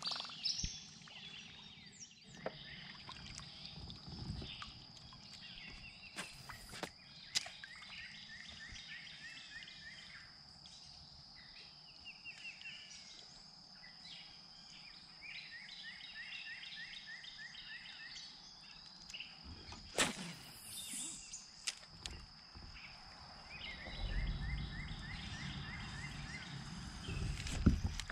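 Quiet river ambience: a songbird repeating a phrase of quick down-slurred notes three times, over a steady high-pitched whine. A few sharp knocks sound from the kayak, and a low rumble comes in near the end.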